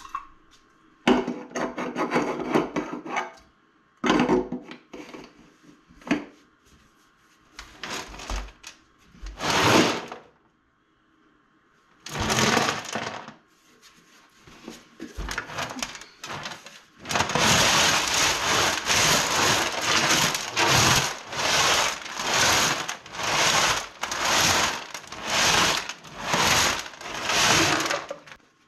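Driveway gravel rattling and scraping inside a rusty steel generator gas tank as the tank is shaken, scouring rust from its inside walls. It comes in uneven bursts at first, then settles into steady back-and-forth shaking a little over once a second for the second half.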